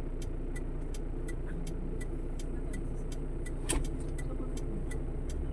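Car engine running steadily, with a sharp, even ticking about three times a second over it and a single knock near the middle.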